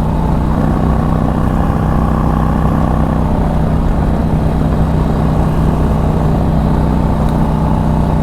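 A 2006 Harley-Davidson Street Glide's 88 cubic inch fuel-injected V-twin running steadily at cruising speed through a loud aftermarket exhaust, heard from the rider's helmet mic.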